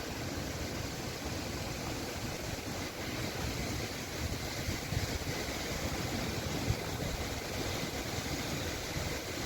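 Strong wind buffeting the microphone: a steady, rough rumble, heaviest in the low end, without a break.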